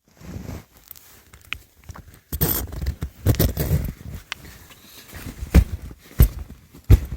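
Footsteps crunching through deep snow, irregular at first, then a steady walking pace of heavy thudding steps.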